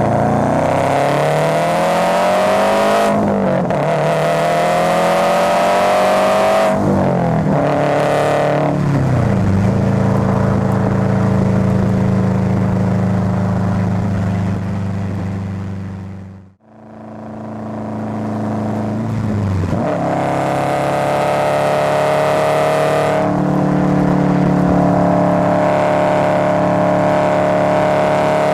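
Subaru Forester's flat-four engine and exhaust under way. The engine note climbs in pitch and drops at each upshift, then holds steady at cruising speed. About halfway the sound fades out for a moment, then returns with another climb, an upshift and a steady cruise.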